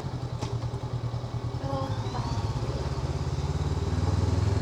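Honda NX500's parallel-twin engine running under way, a low steady note that pulses at first and grows louder toward the end.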